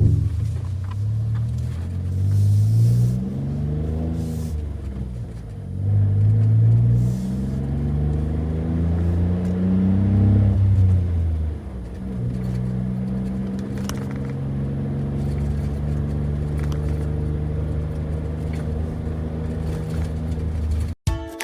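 Suzuki Jimny JB64's 660 cc turbo three-cylinder engine running while driving. It revs up in two long rising pulls, drops back about halfway through, then runs steadily.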